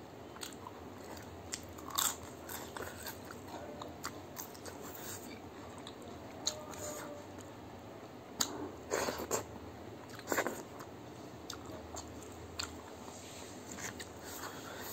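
A person chewing a mouthful of rice and leafy-greens soup eaten by hand, with small wet clicks and a few louder brief bursts of mouth noise about two seconds in and again around nine to ten seconds in.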